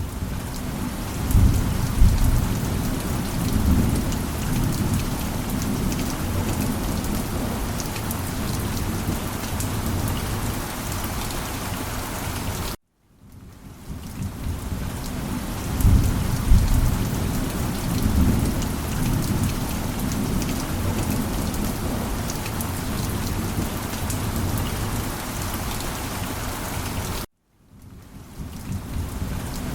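Steady heavy rain with low rumbles of thunder that swell and fade. The sound cuts out suddenly about 13 seconds in and again near the end, then fades back in each time, as a loop restarting.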